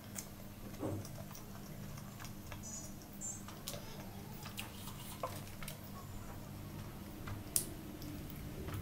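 Close-miked chewing of a mouthful of burger: scattered soft wet mouth clicks and smacks, with one sharper click near the end. A steady low hum runs underneath.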